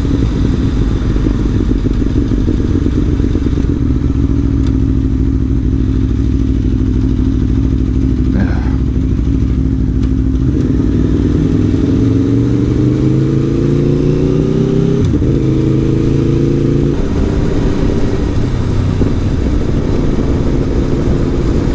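Aprilia Tuono V4 1100 Factory's V4 engine running under way, holding steady revs for about the first half. It then pulls up through the revs in a rising note for several seconds, drops sharply at a gear change, and runs steadily again.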